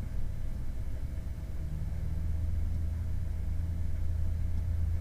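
Low, steady mechanical hum and rumble, strengthening about a second and a half in.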